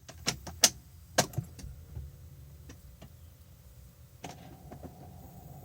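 Sharp clicks and knocks from a BMW E46 318i's cabin as it is readied for a cool start, over a low rumble. About four seconds in, another click and a steady faint hum begin.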